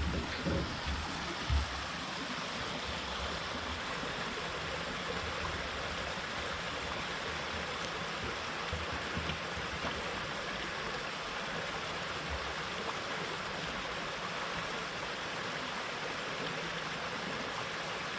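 River water flowing, a steady continuous rush. A few low thumps come in the first couple of seconds.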